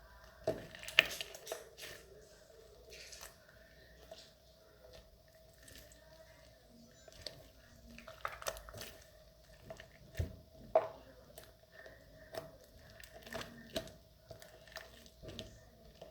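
Stiff purple clay slime being pressed and pulled by hand, giving scattered crackling clicks and squishes; the slime is too hard to stretch smoothly. A faint steady hum runs underneath.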